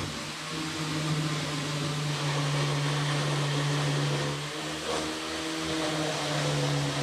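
Steady machine hum over a hiss, the kind a running motor, fan or extraction unit makes; the hum wavers briefly about half a second in and again near five seconds in.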